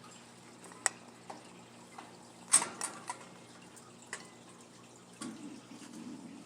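Scattered clicks and knocks of a pet bird's food bowl being taken out of its holder and handled, about six separate knocks with the loudest about two and a half seconds in. A soft low rustling starts about five seconds in.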